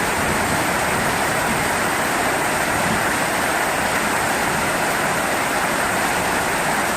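Steady heavy rainfall: an even hiss with no thunder in it.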